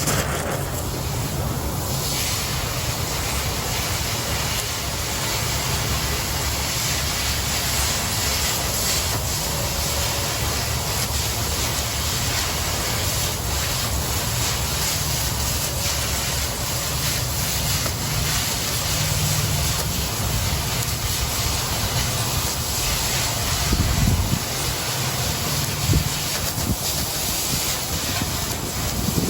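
Oxy-fuel cutting torch cutting through 1/4 inch steel plate: the cutting-oxygen jet makes a steady, loud hiss that starts as the cut begins, with a few louder knocks near the end.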